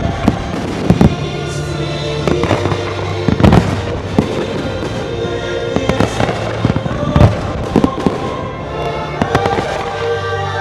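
Fireworks shells bursting in an uneven series of sharp bangs, heard over loud show music with held notes.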